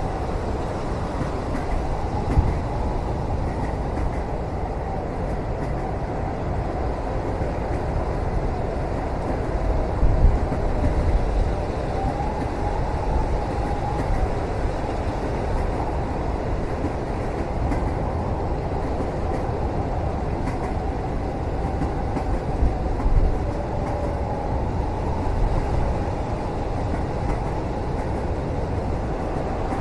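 Steady low rumble of a moving train heard from inside a passenger cabin, with a faint wavering whine and a few heavier jolts about two, ten and twenty-three seconds in.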